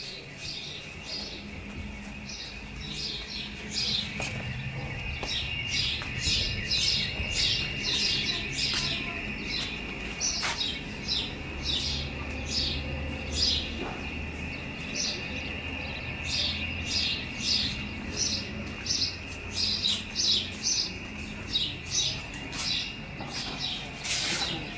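Small birds chirping over and over in quick short calls, with a steady high-pitched buzz underneath.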